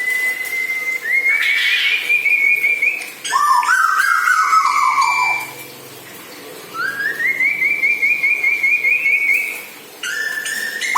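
A bird singing loud whistled phrases. There is a held whistle, then a quick rising run of notes, then a string of falling slurred notes. After a short pause about six seconds in, the pattern repeats.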